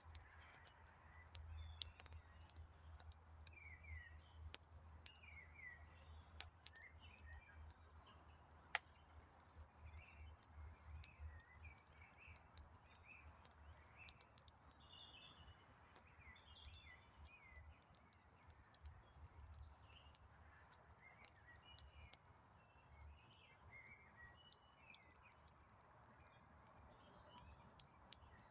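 Faint wood campfire crackling, with scattered sharp pops from the burning logs, while small birds chirp throughout. A low rumble underneath fades out about two-thirds of the way in.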